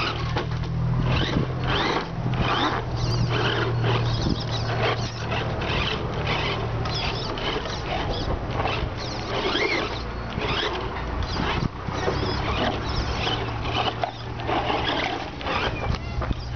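HSP 1/10 radio-controlled monster truck running over rough dirt ground: rapid, irregular scrabbling and crunching from its tyres and chassis over a low steady hum.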